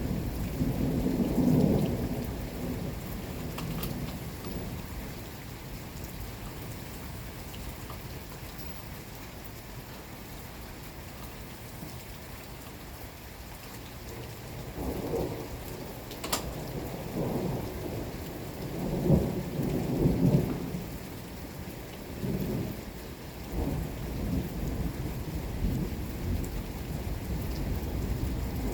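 Steady rain with rolling thunder: a rumble that dies away over the first few seconds, then, after a quieter stretch, a series of rumbles from about halfway, loudest around two-thirds of the way through. There is one sharp click in the middle.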